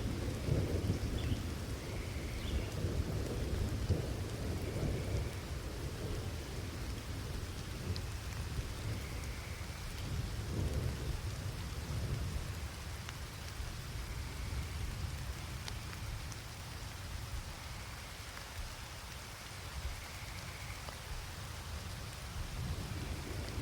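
Steady rain with a low rumble of thunder, heaviest in the first few seconds, easing through the middle and swelling again near the end.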